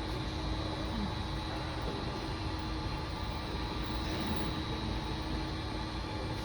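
Steady mechanical hum and low rumble with a background hiss, unchanging throughout, with no distinct knocks or other events.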